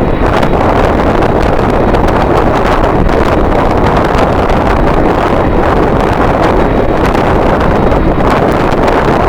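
Strong wind buffeting the microphone: a loud, steady rushing noise with a low rumble and fine flutter.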